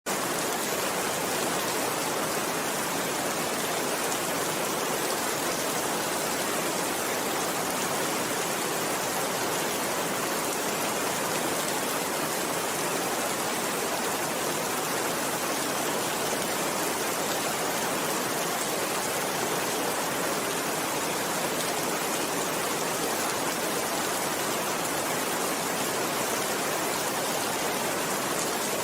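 Steady rain: an even, unbroken hiss of falling rain that holds the same level throughout.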